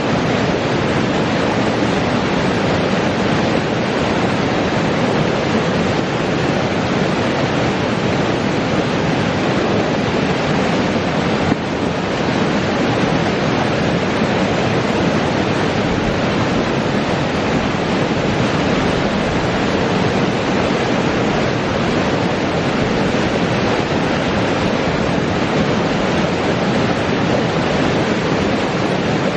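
Spring creek water flowing: a steady, unbroken rushing, with a brief dip about twelve seconds in.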